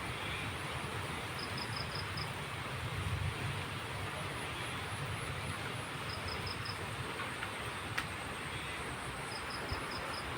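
Steady rain falling, an even hiss, with three short runs of high chirps over it and a single sharp tick about eight seconds in.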